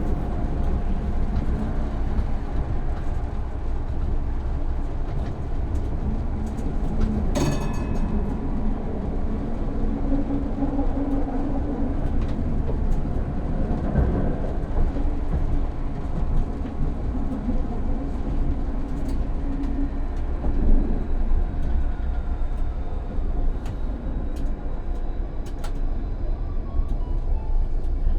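Electric tram running on its rails, heard from the driver's cab: a steady low rumble of wheels and running gear, with one sharp clank about seven and a half seconds in.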